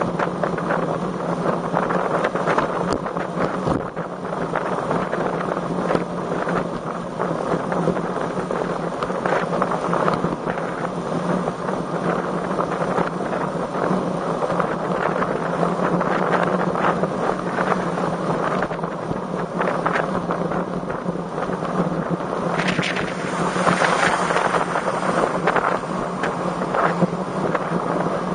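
Strong wind rushing and buffeting over the microphone of a camera riding on a moving road bike, a steady noise that swells louder near the end.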